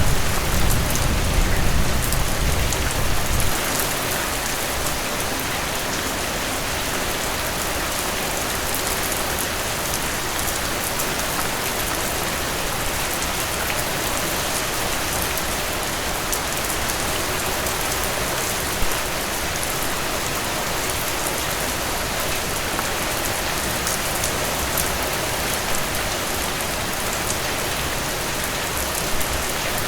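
Heavy rain falling steadily, with the low rumble of thunder dying away in the first few seconds.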